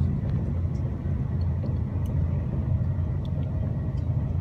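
Steady low rumble of an ICE high-speed train running at speed, heard from inside the passenger car.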